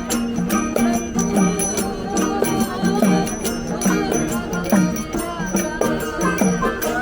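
A live song: a singer's gliding melody over a quick, steady rattling percussion beat.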